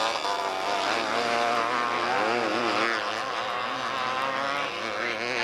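Several small race-car engines running at high revs as a pack of cars laps the track, their pitches rising and falling as they pass.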